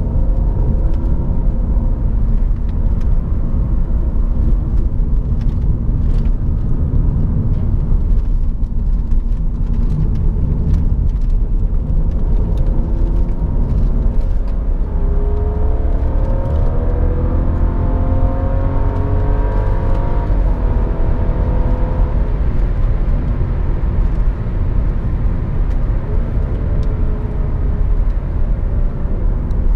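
2012 BMW 535i (F10)'s turbocharged 3.0-litre inline-six heard from inside the cabin over a heavy, steady road and tyre rumble. About halfway through, the engine note rises as the car accelerates, then settles back to a cruise.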